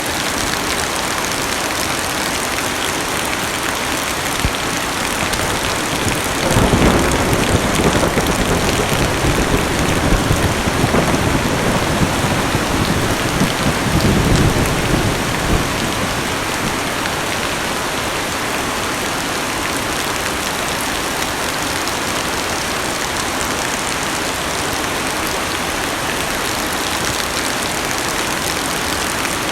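Heavy rain pattering steadily on a car's roof and glass, heard from inside the cabin. A long low rumble of thunder swells in about six seconds in and fades out around fifteen seconds.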